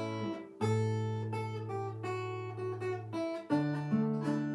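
Acoustic guitar playing an introduction, strummed and plucked chords over ringing bass notes, with chord changes about half a second in and again near the end.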